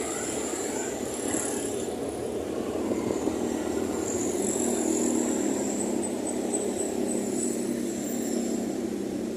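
A motor or engine running steadily, with a faint, wavering high whine above it.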